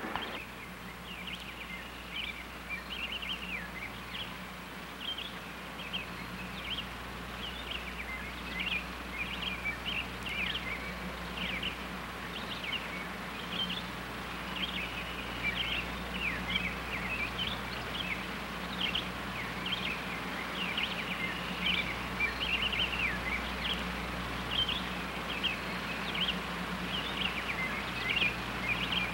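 Small birds chirping and twittering continuously, over a steady low electrical hum.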